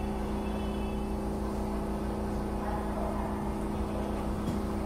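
Echizen Railway electric train heard from inside the car: a steady low rumble with an even, unchanging electrical hum.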